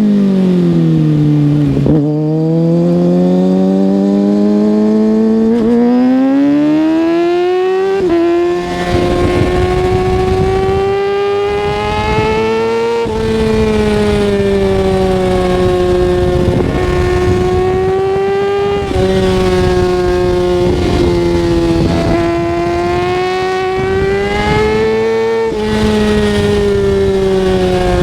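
Kawasaki ZX-6R 636's inline-four engine under way: the engine note falls off over the first two seconds, then climbs for about six seconds, drops back as it shifts about eight seconds in, and holds a high, nearly steady pitch with short dips about 13, 19 and 25 seconds in. Wind noise rises with the speed.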